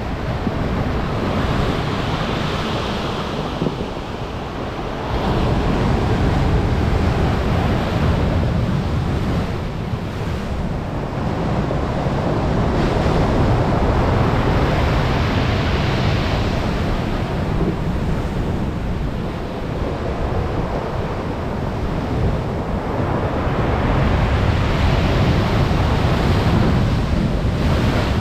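Stormy sea surf breaking on the shore, the wash swelling three times about ten seconds apart, with strong wind rumbling on the microphone.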